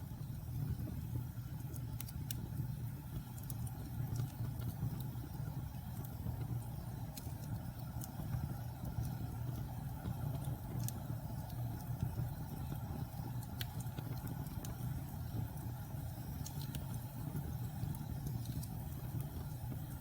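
Logs burning in a fireplace: irregular sharp crackles and pops over a steady low rumble.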